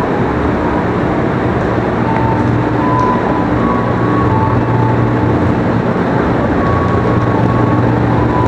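KRL commuter electric train pulling out of a station: steady loud running noise with a low hum, and short held tones from the traction equipment that come and go.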